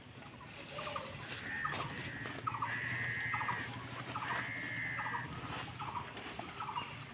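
Birds calling: a run of short rattling calls, with two longer, high, drawn-out calls in the middle.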